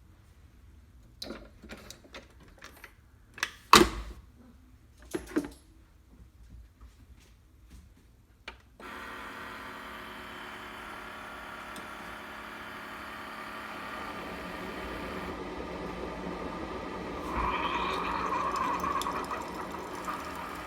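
A few clinks and knocks of a pan and dishes being handled in a kitchen sink, then the tap running steadily into the pan, growing louder as it fills, with a change in tone near the end.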